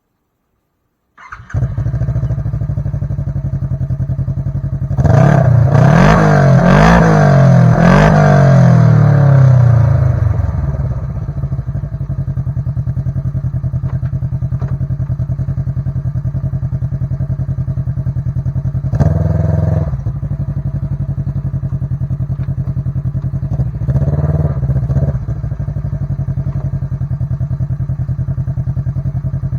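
Kawasaki Teryx KRX 1000's parallel-twin engine running through an MBRP slip-on muffler, idling, then revved hard several times in quick succession about five seconds in. It settles back to a steady idle, with two short throttle blips later on.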